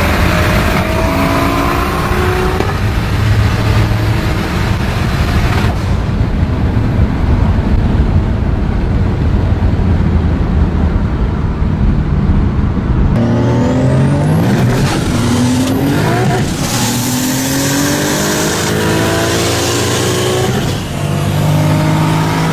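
Turbocharged car engine at full throttle, its pitch climbing repeatedly and dropping back at each gear change as the car pulls hard through the gears.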